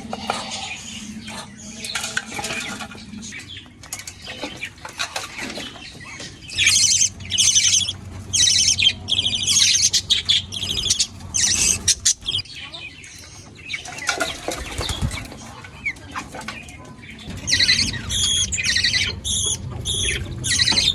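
Pet birds squawking and chirping in repeated loud, shrill bursts over softer chatter. The calls are densest from about six seconds to twelve seconds in, and again from about seventeen seconds to the end.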